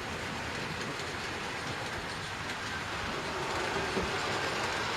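A 00 gauge model train running on the layout: a steady rumble of the motor and the wheels clattering over the track, growing a little louder in the second half, with one faint click about four seconds in.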